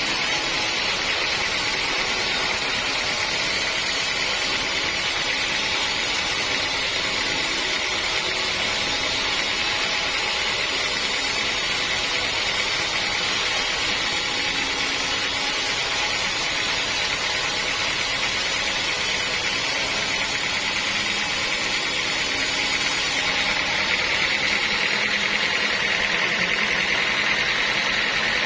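Sawmill saw machinery running steadily, a loud continuous noise that holds the same level throughout.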